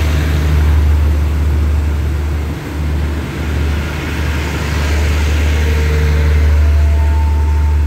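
Passenger train carriages rolling past the platform: a steady low rumble under an even rushing noise from the wheels and running gear.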